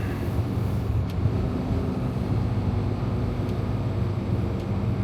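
Freightliner Cascadia semi-truck's diesel engine running steadily with a low, even drone, with a faint click about a second in.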